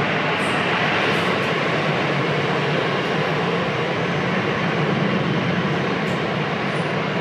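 Jet airliner engines running, a steady noise with no rise or fall, with a few faint brief high ticks.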